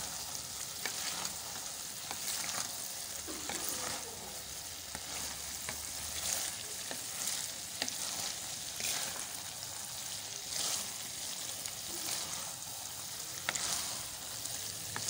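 Potato, pea and radish-pod sabzi sizzling in ghee in a metal pot, stirred with a wooden spoon in repeated scraping strokes over a steady frying hiss. It is being roasted down, the ghee starting to separate from the vegetables.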